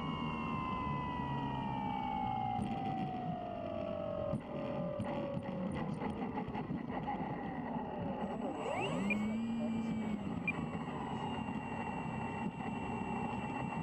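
Electric motor and propeller of an RC airplane whining. Its pitch falls steadily over the first several seconds, dips and climbs again around the middle, then holds a steady tone near the end.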